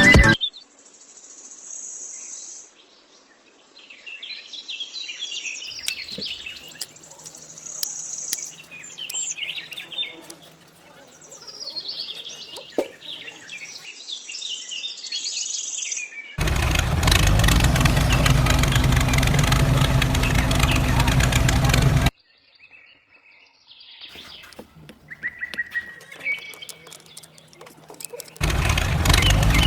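Birds chirping and calling in short high twitters, with a loud steady stretch of a denser, unidentified sound breaking in for about six seconds midway and again near the end.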